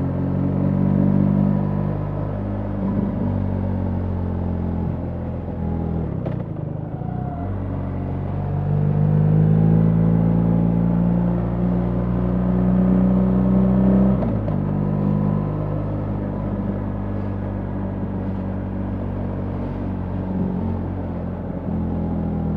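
BMW R 1300 GS motorcycle's boxer-twin engine running under way, heard from on the bike. The engine note breaks and picks back up about six seconds in, grows louder as it pulls until about fourteen seconds in, then breaks again and settles to a steadier cruise.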